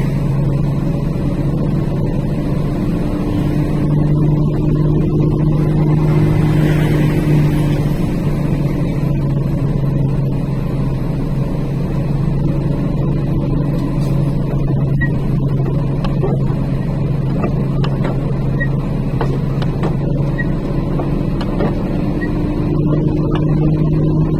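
A truck's engine running steadily under engine braking on a long downhill grade, with a deep, continuous drone whose note shifts slightly a few times.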